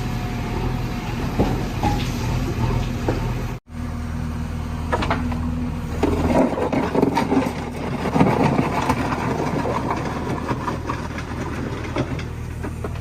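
JCB 3DX backhoe's diesel engine running steadily, with rattling and scraping from the digging work from about six seconds in.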